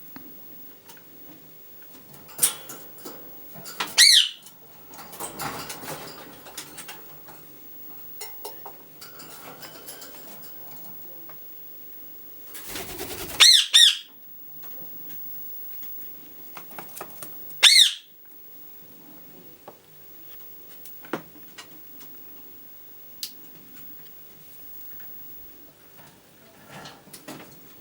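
Rose-ringed parakeets giving a few short, loud, high squawks several seconds apart, with softer rustling between the calls.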